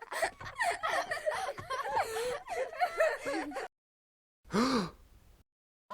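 High-pitched wavering vocal cries overlap for about three and a half seconds. After a short silence, one brief cry rises and falls in pitch.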